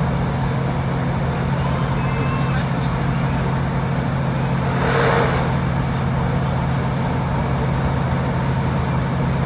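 Inside a moving Class 156 diesel multiple unit: the underfloor diesel engine's steady low drone mixed with wheel and rail noise at speed. About five seconds in there is a brief louder rush.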